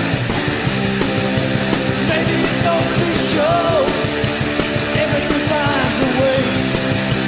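Rock band playing loud punk-style rock, with drums, chords and a sliding melody line over the top.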